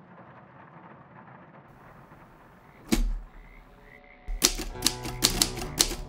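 Typewriter keys clacking in a quick, uneven run of about six strikes a second, starting about four seconds in, with music entering at the same moment. A single sharp strike comes about a second earlier, after a stretch of low hiss.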